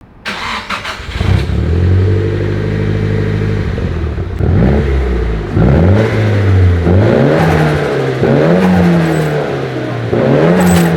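Nissan S15 Silvia Spec-R's turbocharged SR20DET inline-four running through a Kakimoto Hyper Fullmega N1+ Rev exhaust. A short clatter near the start, then a steady idle, then about five free-revving throttle blips, each rising and falling in pitch.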